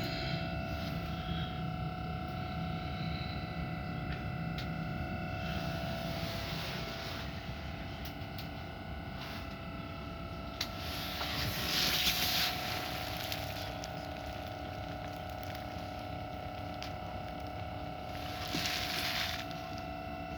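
Inside a stopped electric commuter train: a steady electrical hum with several fixed tones from the train's onboard equipment, over a low rumble, with three swells of hissing noise, the loudest about twelve seconds in.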